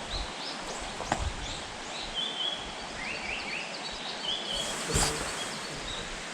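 Wild songbirds calling in a forest, a run of short high chirps and slurred notes. A sharp click comes about a second in, and a louder thump about five seconds in.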